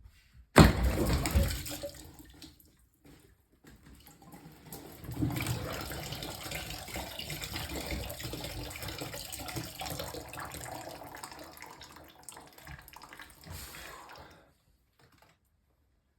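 Water gushing suddenly about half a second in and tailing off, then running steadily from a tap or valve for about nine seconds before it is shut off.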